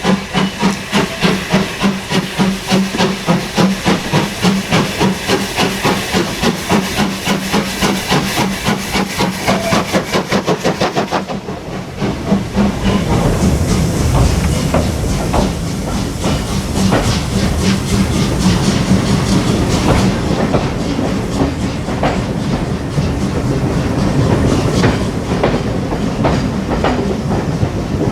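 Steam locomotive working hard, its exhaust beats quickening from about three to about five a second. About eleven seconds in this gives way to the rumble of the train's coaches rolling past, with wheel clicks over the rail joints.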